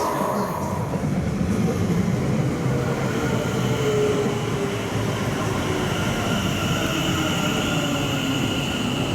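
Passenger train running through the station: a steady rumble of wheels on the rails, with faint whining tones that rise slightly in the second half.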